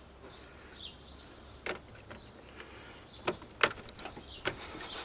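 A few sharp clicks and knocks, irregularly spaced, from a tool being fitted into the starter relay socket.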